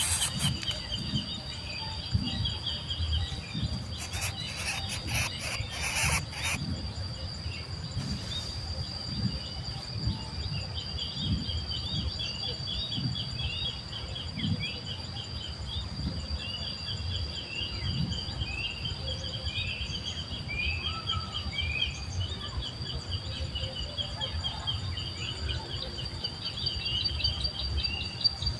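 Small birds chirping in quick series of short high notes, over a steady high insect drone. A few clicks and rustles in the first six seconds.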